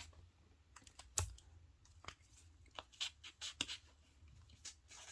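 Jewelry being handled: irregular light clicks and small knocks with a little rustling, a sharper knock about a second in, as a beaded necklace is picked up and laid out.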